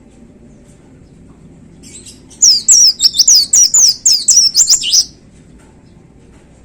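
Caged white-eye (pleci) singing a fast, loud burst of high sweeping chirps for about two and a half seconds, starting a couple of seconds in. This is the rapid 'shooting' (nembak) song of a bird in full song, over a faint low rumble.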